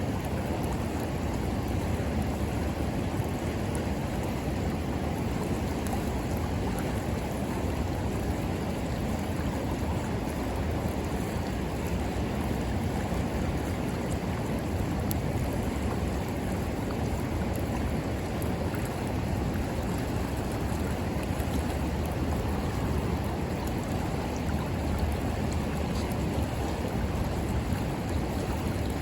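River water rushing steadily, with faint scattered crackles from a wood bonfire.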